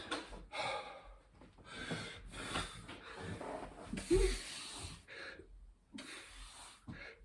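Hard, rapid breathing of a man in the middle of a set of burpees, a breath roughly every half second to second, with a louder grunt and a low thump about four seconds in.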